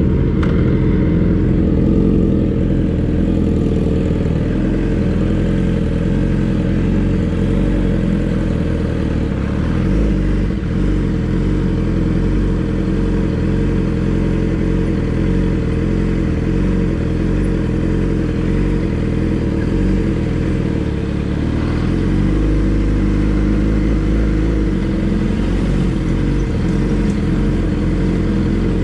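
Motorcycle engine running steadily as the bike rides along, with a shift in the engine note about 22 seconds in.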